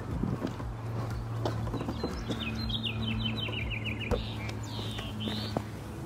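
A small songbird singing: a quick run of about a dozen short, falling notes, then two swooping notes a little later, over a steady low hum.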